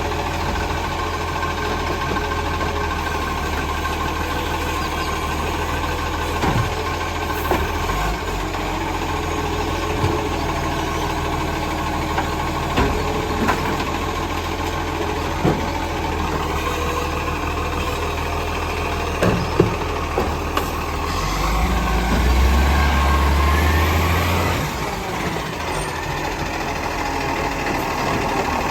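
Garbage truck's diesel engine running steadily, with scattered sharp clanks. About three-quarters of the way through, the engine runs louder for a few seconds, then drops back.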